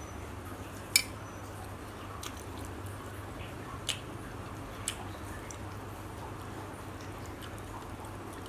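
A few sharp clicks and taps of tableware handled during a meal, the first the loudest, over a steady low hum and soft background noise.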